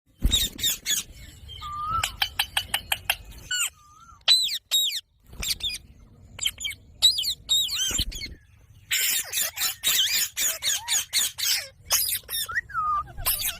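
Indian ringneck parakeets calling: runs of short, sharp, high-pitched squawks and chirps in quick succession, with brief pauses between bursts.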